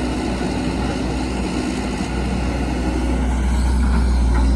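Diesel engine of heavy earthmoving machinery (excavator or dump truck) running steadily with a deep drone, growing louder over the last second or so.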